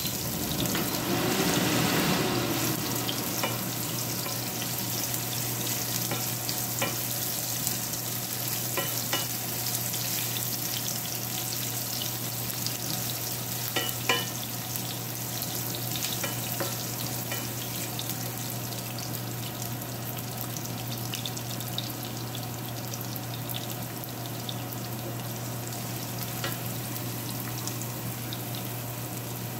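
Sliced ginger, garlic and cumin seeds sizzling in hot oil in a nonstick frying pan, stirred with a wooden spatula, with occasional light clicks of the spatula against the pan. The sizzle is strongest in the first few seconds, then settles to a steady hiss.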